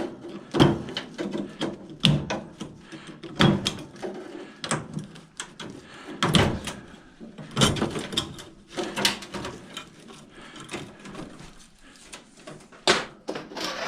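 Irregular knocks, clicks and rattles of hands working inside an old microwave's sheet-metal casing, pulling wire connectors loose, with a few louder knocks along the way.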